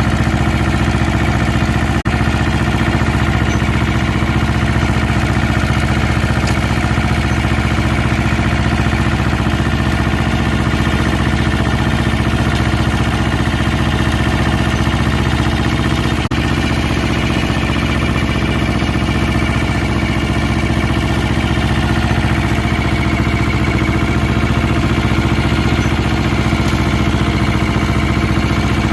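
Barbieri compact tractor's engine running steadily at a constant speed, with its front-mounted flail mower, broken twice by a momentary drop.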